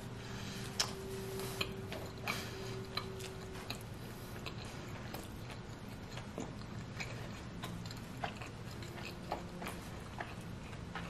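Close-miked chewing of a mouthful of pepperoni pizza, with scattered wet mouth clicks and smacks, roughly one a second. A faint steady hum runs underneath.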